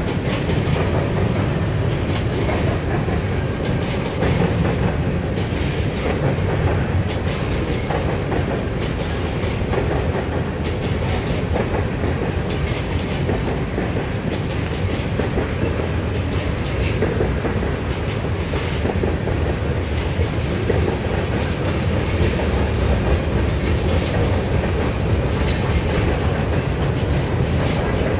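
Freight train cars rolling steadily past at a grade crossing, wheels clacking over the rail joints and crossing. The crossing's electronic bell is dead, so no bell sounds over the train.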